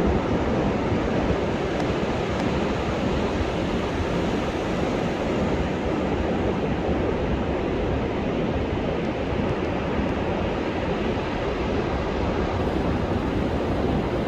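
Rough storm surf breaking on a sandy beach under a high-sea advisory: a dense, unbroken rush of waves, heavy in the low end and steady throughout.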